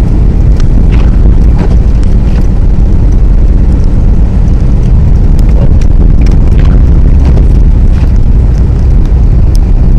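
Geo Metro driving, a steady loud low rumble of the car with scattered short clicks and knocks.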